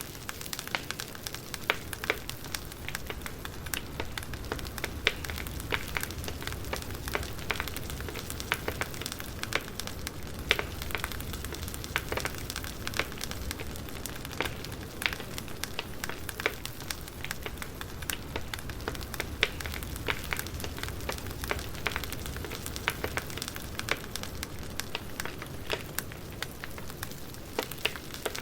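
Wood fire crackling: irregular sharp pops and snaps over a steady low hiss of burning logs.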